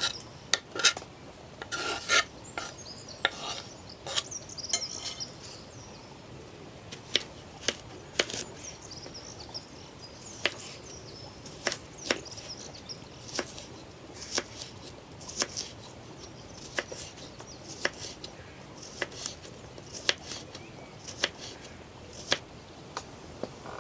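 Knife chopping food on a cutting board: single sharp strikes at a slow, uneven pace of about one a second, closer together and less regular over the first few seconds.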